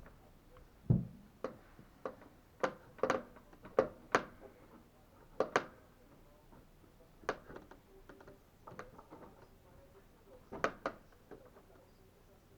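A series of irregular sharp knocks and clicks, roughly one a second, with the loudest a dull thump about a second in and longer gaps in the second half.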